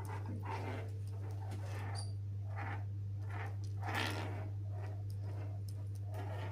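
Pet conure making short, breathy chattering sounds, roughly one a second, the strongest about four seconds in, over a steady low electrical hum.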